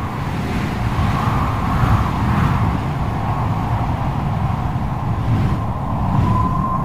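Storm wind howling, with a steady whistling tone over a deep rumble; the whistle grows stronger near the end.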